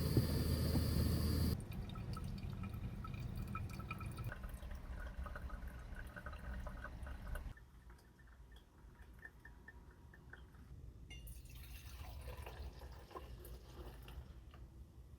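Liquid being poured into a container, with dripping.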